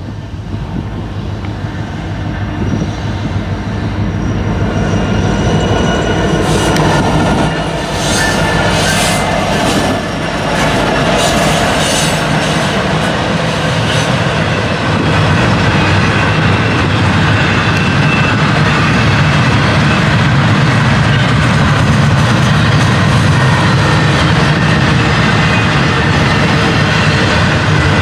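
Freight train passing: the EMD SD70M-2 and GE C40-8W diesel-electric locomotives grow louder as they approach and go by about halfway through. The steel wheels of the double-stack container cars then run on the rails in a steady, loud rumble.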